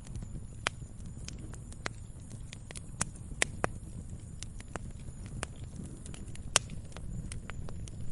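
Log fire burning: irregular sharp crackles and pops over a low, steady rumble of the flames, with a few louder pops standing out.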